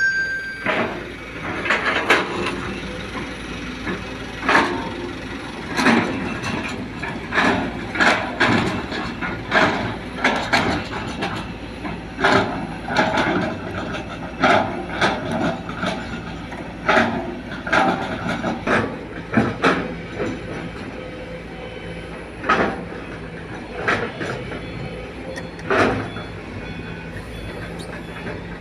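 Sumitomo hydraulic excavator working while it loads soil into a dump truck: its diesel engine runs steadily under frequent loud clanks and knocks, about one a second.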